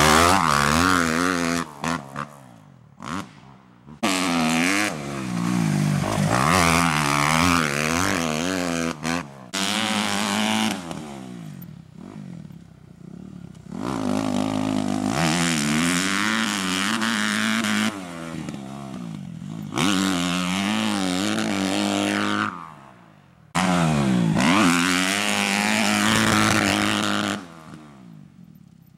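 Kawasaki KX250F motocross bike's four-stroke single-cylinder engine revving hard, its pitch climbing and falling again and again through the gears. The sound drops away abruptly several times before picking up again.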